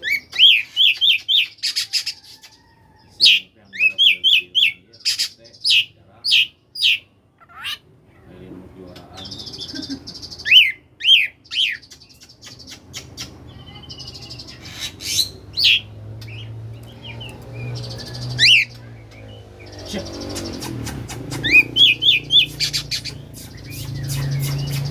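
Oriental magpie-robin (kacer) singing in the choppy 'koslet' style: quick runs of three to five sharp downslurred whistles alternate with harsh buzzy notes, with short pauses between phrases. A low steady hum runs underneath from about a third of the way in.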